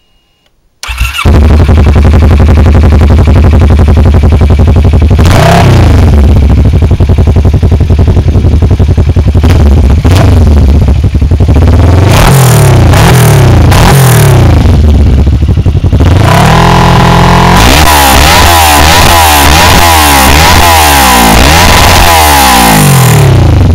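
Kawasaki ER-6N parallel-twin engine running through a Yoshimura Trioval full exhaust system. It comes in suddenly about a second in and idles between revs. It is revved in single blips, held briefly at higher revs about two-thirds through, then blipped quickly over and over near the end.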